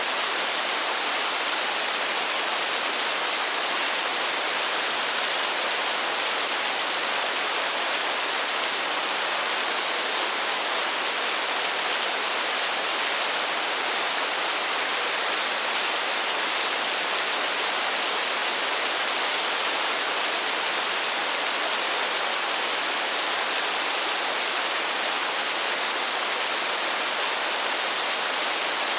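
Steady heavy rain falling in a forest: an even, unbroken hiss of water with no single drops or other sounds standing out.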